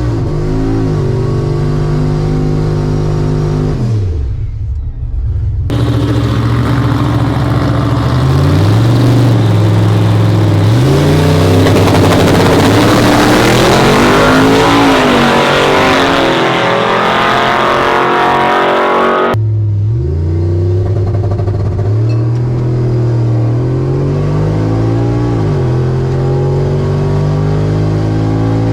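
Drag-racing pickup truck's engine accelerating hard. Its pitch climbs and drops back repeatedly as it shifts up through the gears, with a loud rushing noise over it for several seconds in the middle. The sound breaks off abruptly twice.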